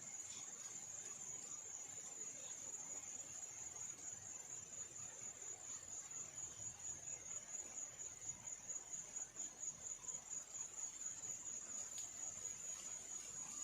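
A steady, high-pitched insect trill, one unbroken tone that does not stop or change.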